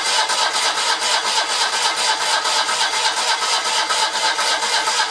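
Citroën 2CV air-cooled flat-twin engine being cranked over by its starter motor in a steady, fast, even rhythm without catching: the engine is not yet getting fuel.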